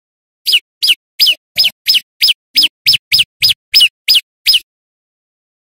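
Prenjak lumut songbird calling a rapid series of twelve loud, sharp notes, about three a second, each a quick downslur from high to lower pitch, then stopping.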